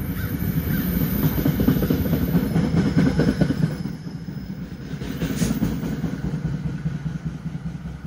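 NJ Transit commuter train rolling past close by and pulling away: a heavy rumble of wheels on rail with rapid clatter, loudest for the first four seconds, then dropping and fading as the last cars go by.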